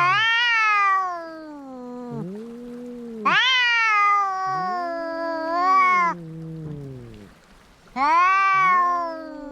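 Two cats caterwauling at each other in a standoff before a fight. One gives three long, loud, high-pitched yowls; the other answers with a lower, wavering moaning yowl that overlaps them and fills the gaps.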